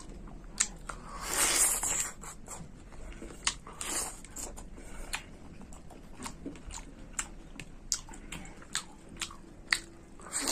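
Close-up mouth sounds of a person eating long mulberries: chewing, with irregular sharp clicks and smacks and a louder, longer sound about a second in.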